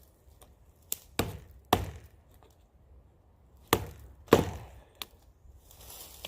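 Sharp wooden knocks as a pocket knife is worked into the trunk of a dead standing tree: about six uneven strikes, the loudest a little past the middle.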